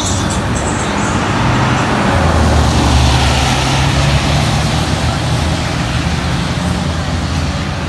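Road traffic: a vehicle's engine rumble and tyre noise swell to a peak about three seconds in and ease off again, over a steady background of traffic.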